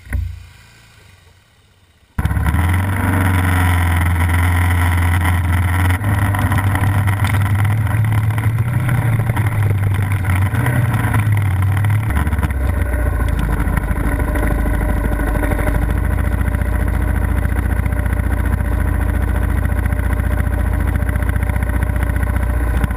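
Dual-sport motorcycle engine running close up, a steady drone that cuts in abruptly about two seconds in and settles to a lower pitch about halfway through. A single short thump comes at the very start.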